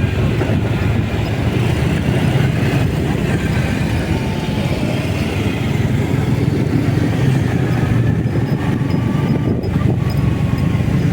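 Motorcycle being ridden, with a steady low rumble of engine and wind noise.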